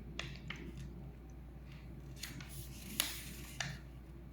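A sheet of paper being handled and folded in half: several short, crisp rustles and crackles, the sharpest about three seconds in.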